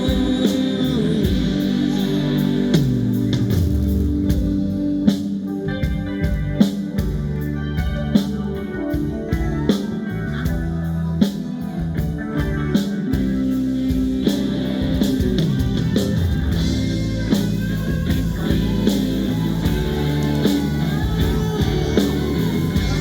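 Live rock band playing an instrumental break in a ballad: electric guitar over bass and drums.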